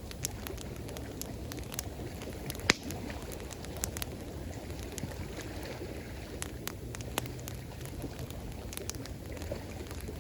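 Campfire crackling, with irregular sharp snaps and pops, the loudest a little under three seconds in, over a steady rush of water.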